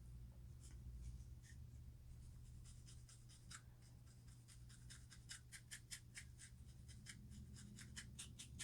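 Faint, rapid scratching strokes on a scalp being scratched to loosen dandruff. The strokes come quicker and steadier after the first couple of seconds, about five a second.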